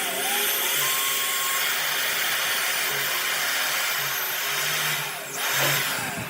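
Handheld electric woodworking power tool running steadily with a loud, even whir, swelling briefly near the end.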